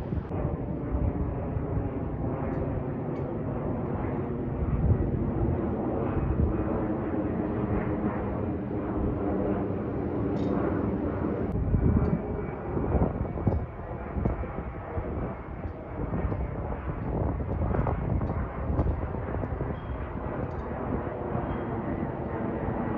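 Narrowbody jet airliner's engines running as it passes overhead: a steady rumble with a droning hum, and wind buffeting the microphone.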